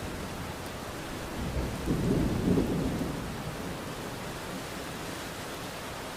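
Steady rain falling, with a roll of thunder that swells about a second and a half in, is loudest around two to three seconds, then fades back under the rain.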